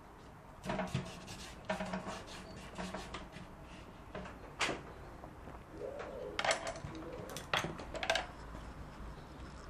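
Paintbrush working on watercolour paper: about seven short, scratchy strokes and dabs spread out with pauses between them.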